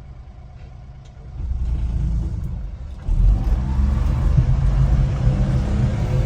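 1996 Honda Acty 4WD kei truck's small three-cylinder engine running quietly, then growing louder about a second in and louder again at about three seconds, settling into a steady low drone as it takes on more throttle.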